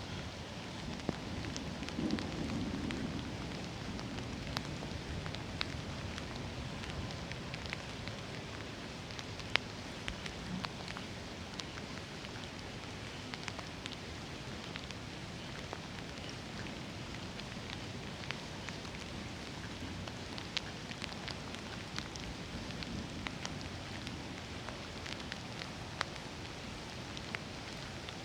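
Steady rain falling, with many scattered sharp ticks of drops striking nearby surfaces.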